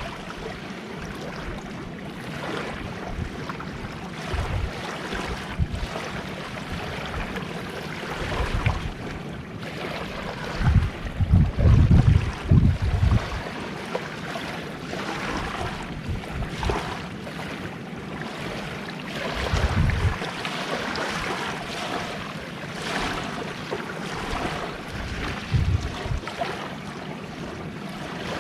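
Sea waves washing onto the shore, with gusts of wind buffeting the microphone, strongest about eleven to thirteen seconds in.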